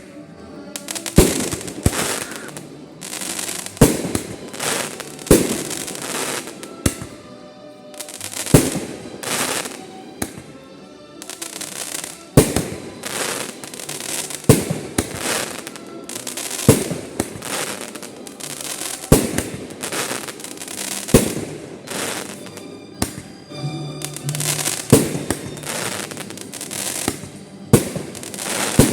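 Fireworks display: aerial shells bursting with sharp bangs about every two seconds, each followed by a crackling trail.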